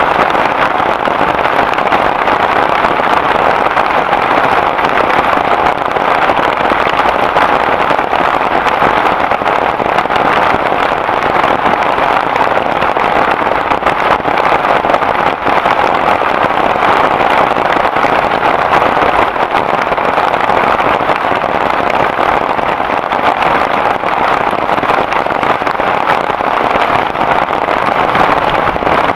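Heavy rain falling steadily: a loud, even downpour with no let-up.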